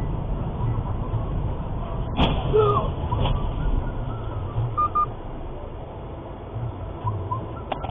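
Low, steady rumble of a moving car as picked up by a dashcam, with a sharp knock about two seconds in and another about a second later.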